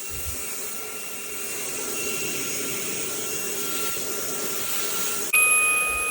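Fanttik Slim V8 Apex handheld cordless vacuum running with a steady whine. About five seconds in, it jumps abruptly louder and higher-pitched as it is switched to its high power setting.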